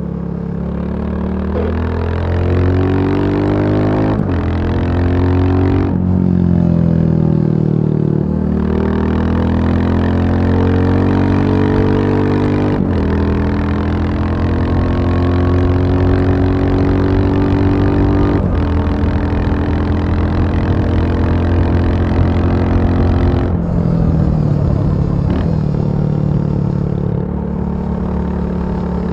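Royal Enfield Bullet 350 single-cylinder four-stroke engine running under load, its pitch climbing and then dropping back sharply several times in the first dozen seconds, as on gear changes, then holding steadier and settling lower near the end.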